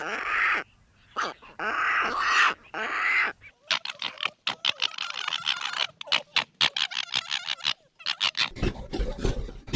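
A run of animal calls from different clips in a row. First come harsh, noisy calls. A cut about three and a half seconds in brings a fast, rapid chatter, and near the end a deeper animal sound starts.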